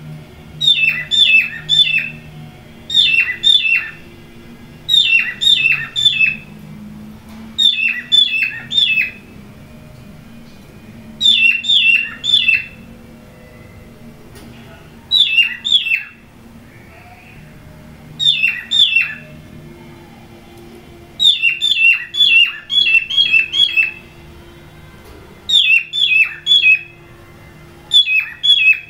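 Cockatiel giving quick runs of three to six short, sharp, downward-sliding chirps, a run every second or two with a few longer pauses. A faint steady low hum runs underneath.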